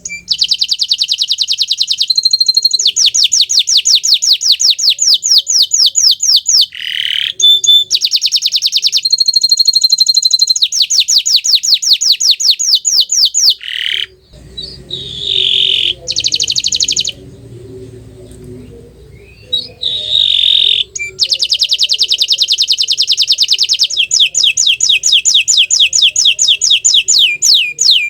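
Bottle-green domestic canary singing: long, rapid trills of fast repeated high notes with short whistled phrases between them, broken by a few seconds of sparser song midway.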